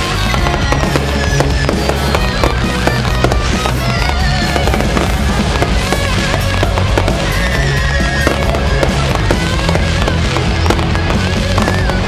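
Fireworks going off in quick succession, with many sharp bangs and crackles of bursting shells, heard over steady background music.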